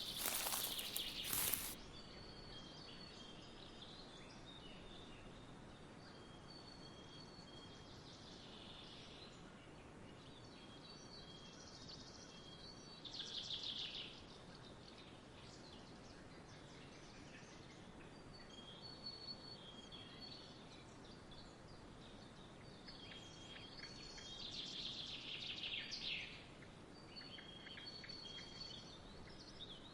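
Songbirds calling over a faint steady background hiss: short repeated high chirps and a few louder trills that fall in pitch, the loudest about halfway through and again near the end. In the first two seconds there is a loud crackling rustle, like footsteps through dry leaves.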